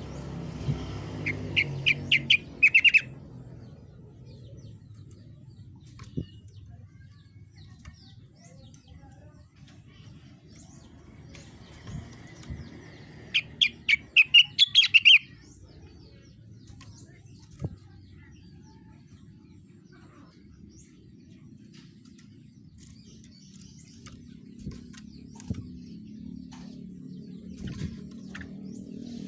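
Rengganis songbird singing two short bursts of rapid, loud repeated notes, about a second in and again about halfway through, over a low steady background hum.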